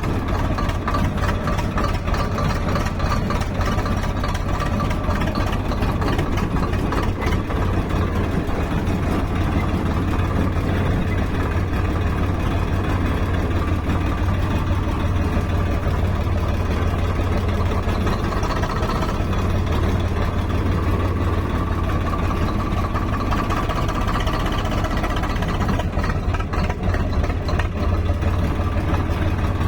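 Heavy diesel engine of a tractor or backhoe-type machine running steadily at a low, even speed.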